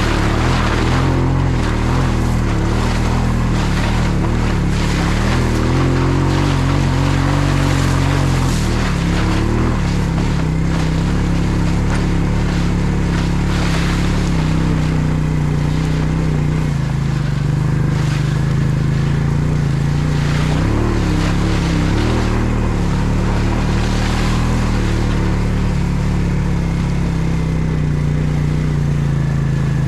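ATV engine running under load, its revs rising and falling several times as it is ridden.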